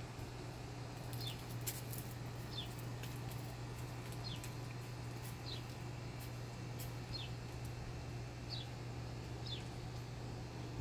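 A bird repeats a short, high, falling chirp about seven times, a second or so apart, over a steady low hum.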